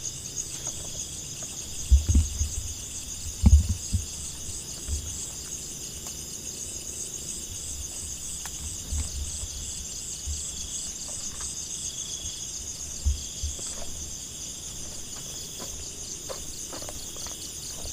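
Steady chorus of night insects such as crickets, a high pulsing chirring, with a few low thumps; the loudest come about two and three and a half seconds in.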